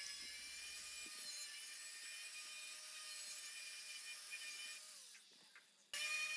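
A small power tool running steadily with a high whine over a hiss, as of a rotary tool or sander working a surface. It fades out about five seconds in, then cuts back in abruptly just before the end.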